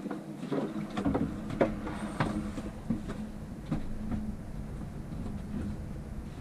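Irregular knocks and taps of a small wooden bracket and cabinet parts being handled and test-fitted, about a dozen over the few seconds, over a steady low hum.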